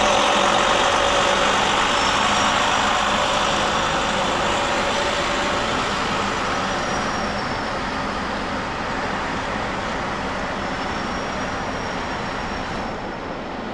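City street traffic with a heavy vehicle's engine drone, a steady hum that slowly gets quieter, with a faint high whine above it.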